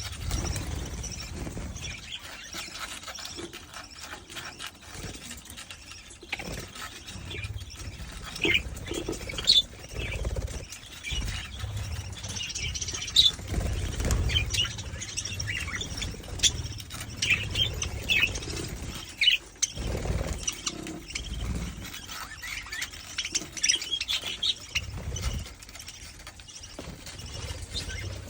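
Budgies chirping and chattering: a steady stream of short chirps and warbles, with a low rumble coming and going underneath.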